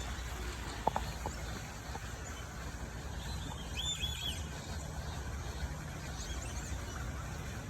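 A low steady rumble, with a few short bird chirps around four seconds in and again a little later, and a single click about a second in.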